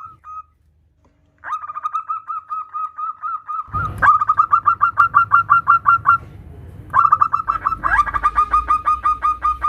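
Zebra dove (perkutut) calling: rapid runs of short, clipped cooing notes, about seven a second, in three bursts with brief pauses, the call the title gives as a female calling a male. A low rumble runs underneath from about halfway through.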